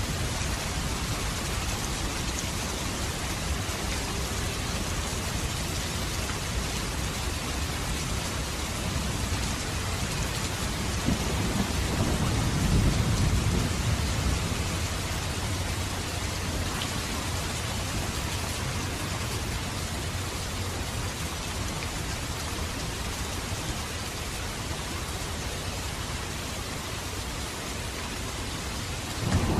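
Steady heavy rain falling, with a low roll of thunder swelling up and fading away near the middle.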